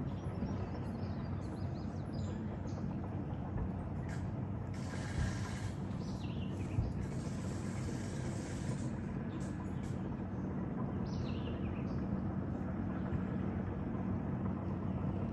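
An engine running steadily with a low, even hum, with a few short bird chirps over it.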